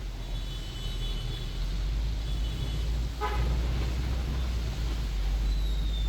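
Street traffic under a steady low rumble, with vehicle horns beeping several times: high thin toots early on and near two and a half seconds, a short sharp beep a little after three seconds, and a brief falling high tone near the end.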